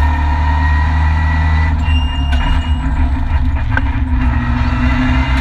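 Renault Mégane N4 rally car's turbocharged four-cylinder engine running steadily at speed, heard loud from inside the stripped cabin. A few short knocks come through about two seconds in and again near four seconds.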